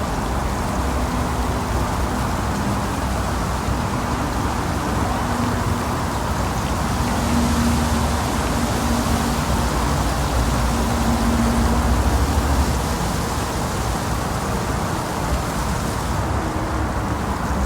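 Steady outdoor city noise: a low engine rumble under an even hiss, with a faint hum that comes and goes and is loudest around the middle.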